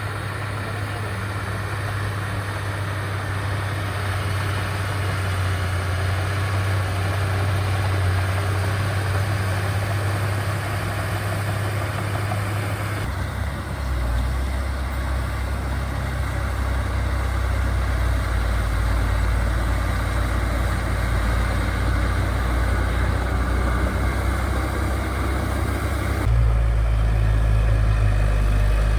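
Diesel engine of heavy earthmoving equipment running steadily with a low drone. Its note changes suddenly about 13 seconds in and again near the end.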